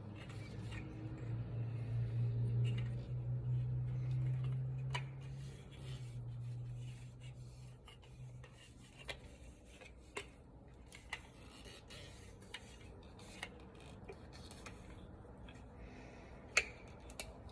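Handling and taping a threaded pipe nipple: a string of sharp, separate clicks and ticks as the tape and fitting are worked by hand. A low hum runs through the first half and fades out by the middle.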